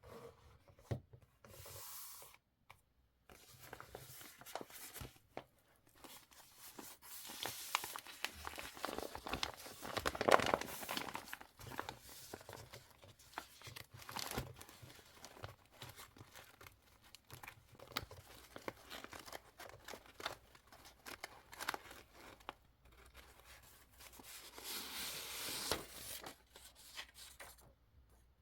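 Paper being torn and handled: tearing, rustling and crinkling in uneven spells, loudest about ten seconds in.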